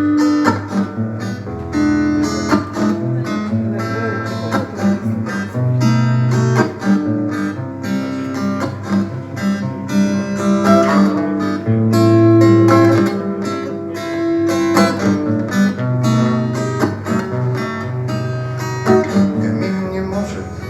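Instrumental music led by acoustic guitar, with plucked and strummed notes over sustained bass notes.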